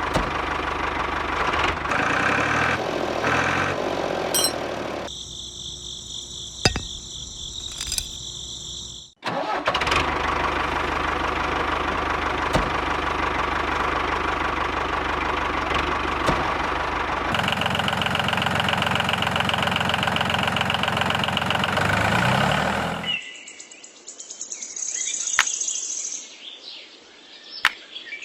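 Engine-like motor running steadily, in several edited segments that change abruptly; it stops about 23 seconds in and leaves faint high chirps.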